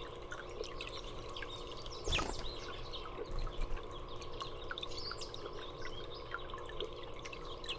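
Small birds chirping, many short high calls one after another, over steadily trickling water. A brief louder rustle about two seconds in.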